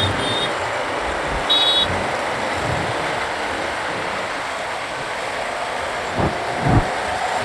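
Motorcycle riding through city traffic: steady engine, wind and road noise, with a short high beep about a second and a half in and two low thumps near the end.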